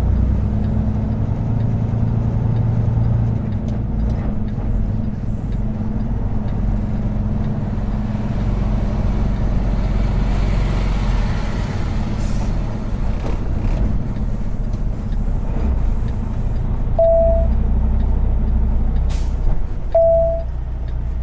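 Semi truck's diesel engine running steadily at low speed, heard from the cab. Near the end come two short beeps about three seconds apart, with a brief sharp noise between them.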